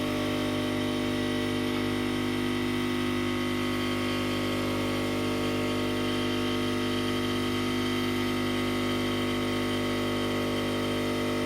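Nespresso Inissia capsule machine brewing, its vibration pump giving a loud, steady hum as it pushes water through the capsule.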